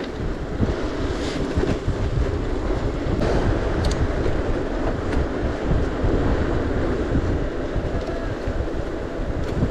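Wind buffeting the microphone over the rumble of a gravel bike rolling along a gravel forest road, with a few sharp ticks.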